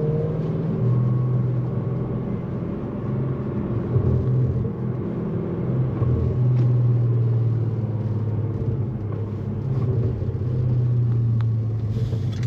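Tuned Audi S6's engine running at low speed, a steady low drone with no hard revving.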